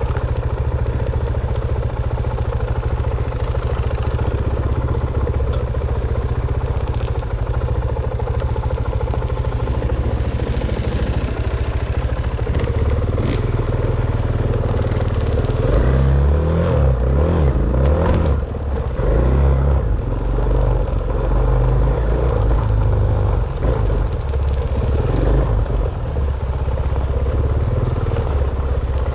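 Dirt bike engine running steadily at low revs, with a stretch of the revs going up and down about halfway through.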